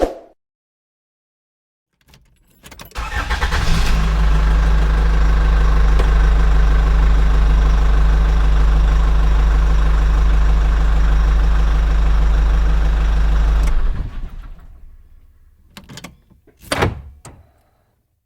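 Isuzu C240 four-cylinder diesel engine starting about two seconds in and running steadily for about ten seconds, then shut off and winding down. A few sharp knocks follow near the end.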